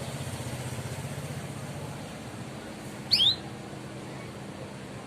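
Canary giving a short 'cuit cuit' call: a quick pair of sharp rising chirps about three seconds in. Before it, a low rumble fades out after about two seconds.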